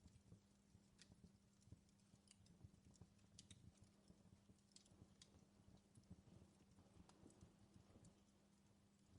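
Faint fireplace crackling: irregular small pops and snaps of burning wood over a low steady hum.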